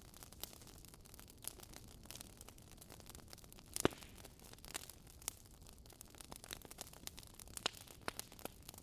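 Wood fire crackling in a fireplace: burning logs giving irregular sharp pops and snaps over a faint low hiss, with one louder pop a little before halfway.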